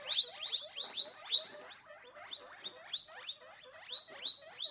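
Guinea pig squeaking: a rapid series of short, high squeaks, about three a second, louder in the first second and a half.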